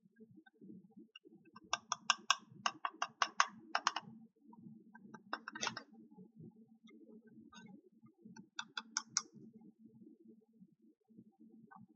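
Small plastic toy pieces clicking and tapping as they are handled: a quick run of about eight light clicks about two seconds in, then short clusters of clicks near the middle and again later.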